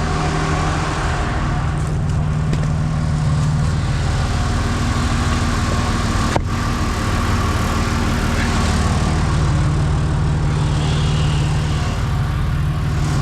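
Four-wheel drive's engine running steadily at idle, with a single sharp knock about six seconds in.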